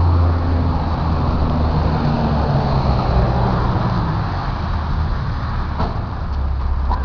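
Street traffic: a motor vehicle engine running with a steady low hum and road noise, its pitch sagging slightly a couple of seconds in.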